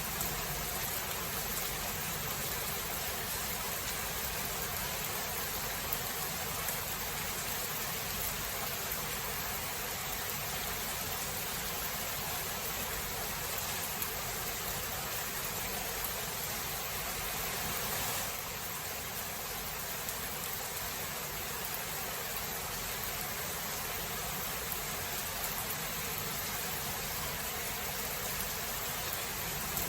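Steady rain falling in a thunderstorm recording: an even hiss with no distinct thunderclap, dipping slightly in level a little past halfway.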